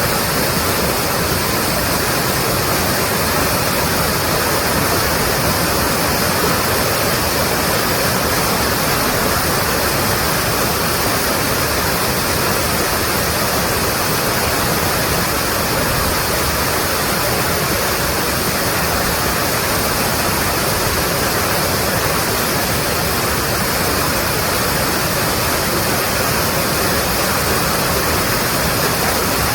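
Mountain stream rushing over rocks: a loud, steady wash of water.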